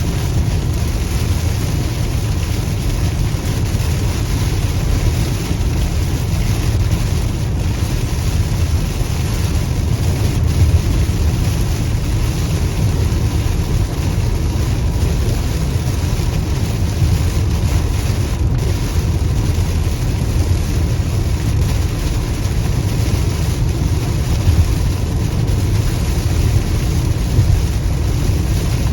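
Steady low rumble of a car on the move, tyre and wind noise.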